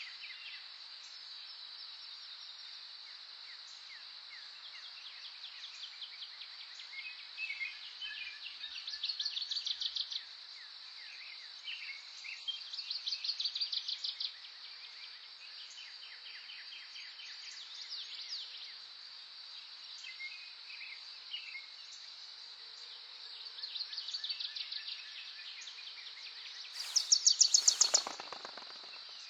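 Several songbirds singing short, rapid trills every few seconds over a steady high-pitched insect drone, as in a cricket or cicada chorus. The loudest, closest trill comes near the end.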